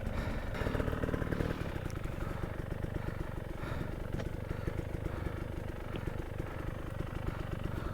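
Dirt bike engine running steadily at low revs, with a few faint clicks.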